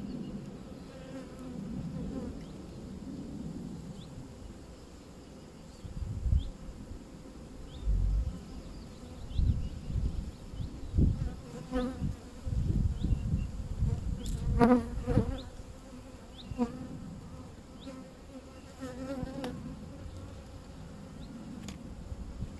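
Honeybees buzzing around an open hive, with single bees swelling loud as they fly close past, several times in the second half. Irregular low thumps come and go through the middle.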